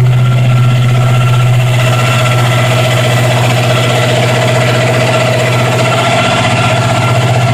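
1936 International pickup's hot-rodded engine, with a Weiand 177 supercharger and headers, idling steadily on its first start-up after a rebuild.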